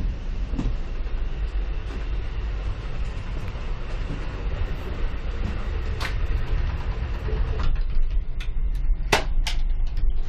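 Amtrak passenger train running, heard from inside the car as a steady low rumble. There is a sharp click about six seconds in and a few sharp clicks and knocks near the end.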